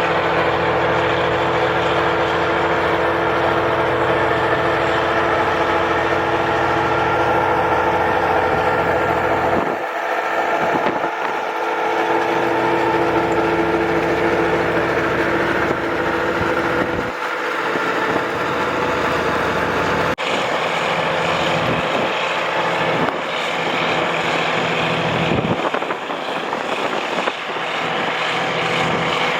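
A vehicle running: a steady engine hum under a constant rush of wind and road noise. The low hum drops out briefly a few times.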